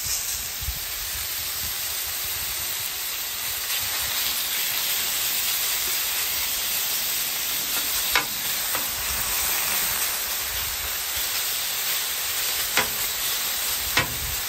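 Raw chicken pieces and vegetables sizzling in oil on a hot flat-top griddle: a steady hiss. A few sharp clicks of a metal spatula and bench scraper against the steel griddle top come in the second half.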